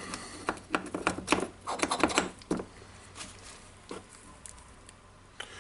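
Light clicks and taps of small greased metal parts of a DeWalt D25003 rotary hammer being handled and fitted during reassembly, in quick clusters over the first two and a half seconds, then a few single clicks.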